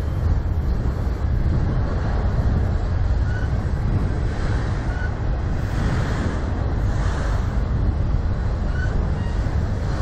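Freight train of autorack cars rolling past: steady rumble of steel wheels on the rails, with a few faint brief squeaks.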